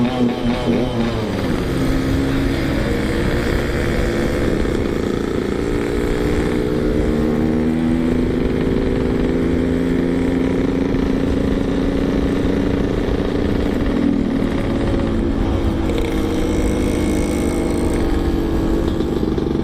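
Yamaha RX King's 135cc two-stroke single-cylinder engine running at light, steady throttle while riding slowly, its pitch drifting gently up and down.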